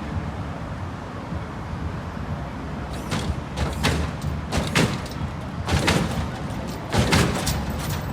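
A steady low rumble, with a run of sharp knocks and bangs that begins about three seconds in and comes quicker toward the end.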